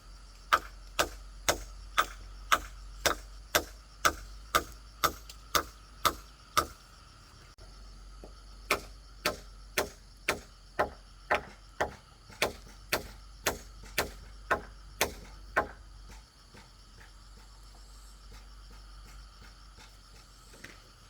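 A hand tool striking bamboo in steady blows, about two a second, in two runs of a dozen or so strikes with a short pause between; the blows stop a few seconds before the end.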